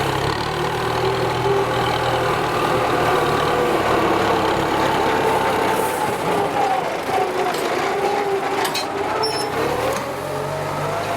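Kubota M9540 tractor's diesel engine running steadily while ploughing, its pitch wavering slightly and rising near the end.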